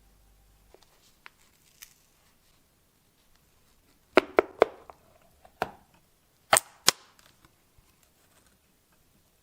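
Six sharp clacks of hard objects knocking together: three in quick succession just before the middle, then three more over the next two and a half seconds, each with a brief ring.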